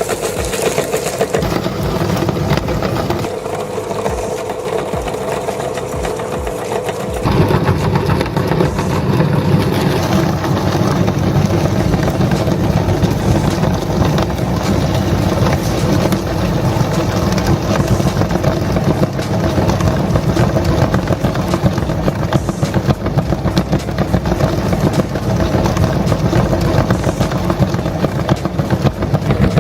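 Motor-driven meat grinder running steadily. About seven seconds in, its sound gets louder and heavier in the low range.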